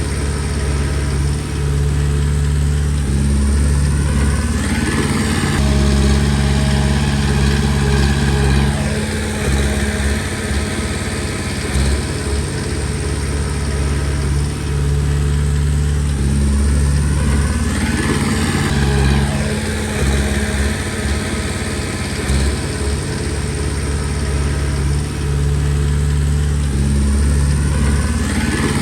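Komatsu D20P bulldozer's diesel engine running steadily at working speed. Its note rises and falls several times as the machine works under changing load.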